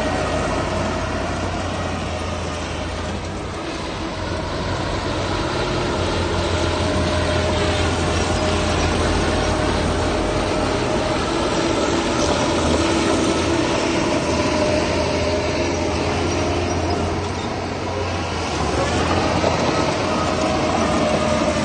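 Diesel engines of heavy earthmoving machinery running steadily, with a metallic whine over a low engine drone. The loudness dips slightly twice.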